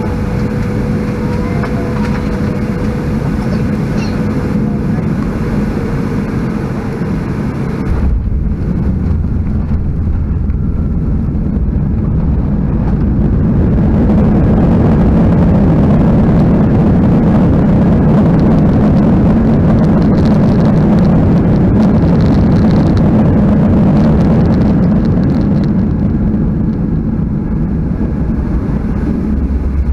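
Cabin noise of a Boeing 737-800 landing: an abrupt change in the sound about eight seconds in, then the CFM56 engines swelling to a loud, steady roar for about ten seconds and easing off near the end, as with reverse thrust on the landing rollout.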